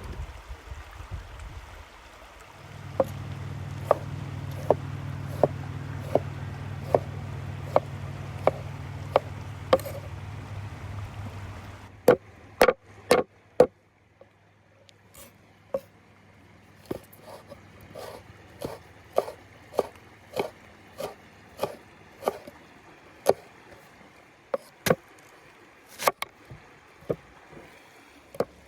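A kitchen knife chopping on a wooden cutting board, with a sharp knock about every 0.7 seconds. A low steady hum runs beneath the first strokes and stops about twelve seconds in; from there the knocks are sharper and louder.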